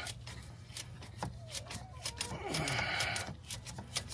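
A man groaning and breathing out hard with effort about two seconds in, his voice sliding down in pitch into a breathy exhale. Light clicks are scattered throughout.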